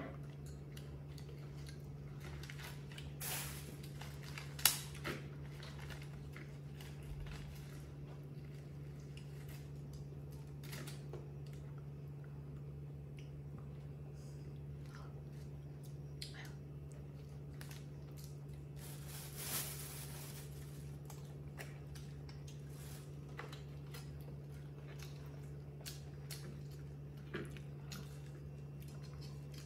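Baby monkey biting and chewing crispy fried breaded food, with scattered crunches and sharp clicks; the loudest click comes about four and a half seconds in. A steady low hum runs underneath.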